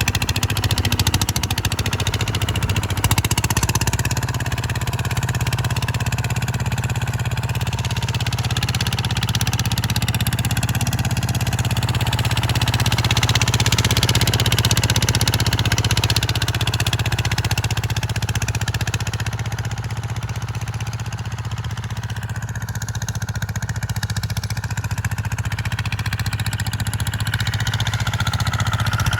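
An engine running steadily, with a strong low hum and a noisy rush above it.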